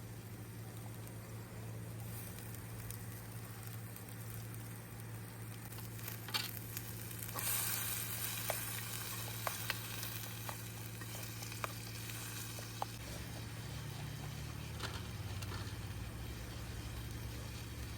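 Food frying in a pan over a campfire. After a sharp clack, sizzling starts about seven seconds in and carries on with sharp pops about once a second.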